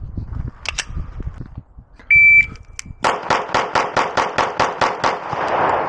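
An electronic shot timer gives one short, high start beep. About a second later a Beretta pistol fires a rapid string of about ten shots, roughly four to five a second, and the last shot's echo dies away.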